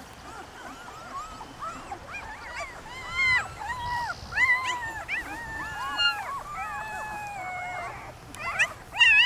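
Newborn German Shepherd puppies, about four days old, squealing and whining, several high, wavering cries overlapping. Faint at first, louder from about three seconds in, and loudest near the end.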